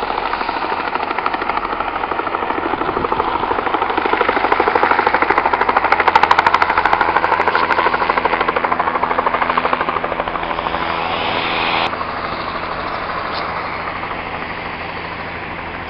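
Loud, rapid mechanical pulsing from an engine or rotor. It grows louder to a peak about six seconds in, then slowly fades, dropping suddenly near the end.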